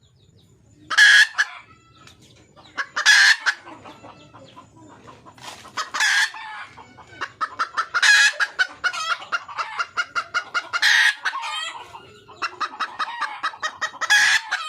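Red junglefowl hen calling for a mate: loud short cackling calls every two to three seconds, with fast runs of clucks, about five a second, between the later calls.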